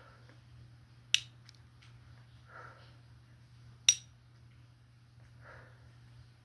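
Two sharp snaps about three seconds apart, the first about a second in, with soft breathy whooshes between them.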